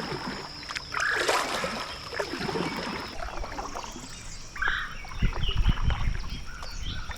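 Water splashing and trickling around a kayak on a river, with scattered short splashes and low thumps about five seconds in.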